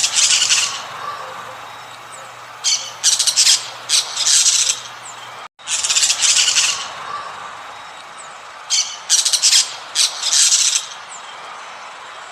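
Bird calling in clusters of short, high chirps and squawks over a steady background hiss; the same sequence of calls plays twice, with a brief dropout about five and a half seconds in.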